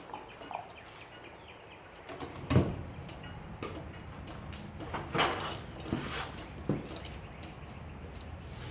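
Scattered knocks and clunks of hardware being handled during a garage door opener installation, the loudest about two and a half seconds in, over a low steady hum that begins about two seconds in.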